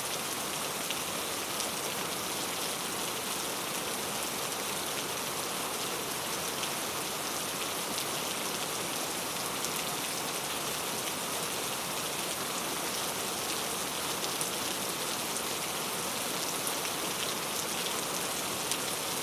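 Steady rain falling on a thatched roof of coconut palm leaves: an even, dense hiss with many light drop ticks scattered through it.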